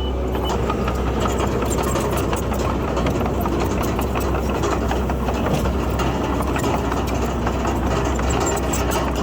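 Komatsu D31PX bulldozer's diesel engine running steadily, with a continuous rattling clatter of its steel tracks.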